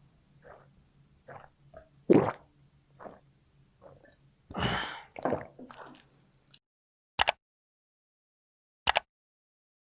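Close-miked mouth sounds of eating rice and fish curry: irregular wet chewing and smacking, with two louder smacks, one about two seconds in and one about four and a half seconds in. The sound then cuts out completely, and two short pops follow about a second and a half apart.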